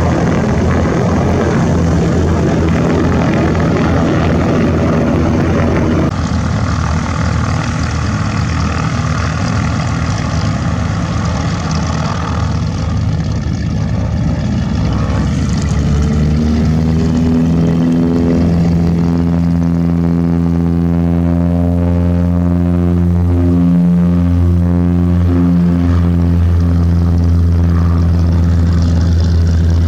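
Propeller airplane running loud and close. From about halfway a steady, low propeller drone with several even tones takes over.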